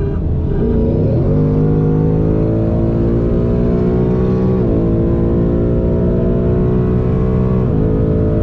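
Car engine accelerating hard at full throttle in a roll race. The pitch jumps up about a second in, climbs steadily, and drops back with an upshift about halfway through and again near the end.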